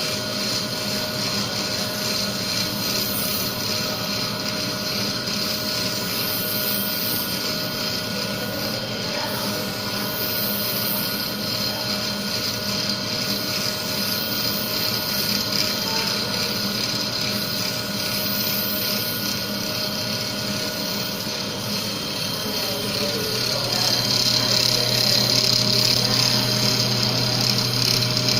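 Small CNC cylindrical grinder running: a steady hum of the grinding-wheel motor with several fixed tones and a hiss, as it grinds the outside diameter of a small workpiece. About 23 seconds in it grows louder, with an added low hum and more hiss.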